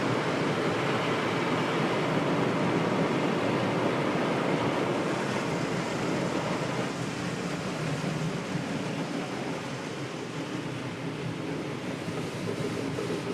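Car wash running: a steady rushing of water spray and machinery that eases off somewhat in the second half.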